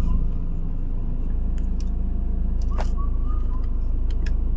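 Vehicle engine idling steadily with a low even rumble. Short thin whistled notes, likely birds, come at the start and again about three seconds in.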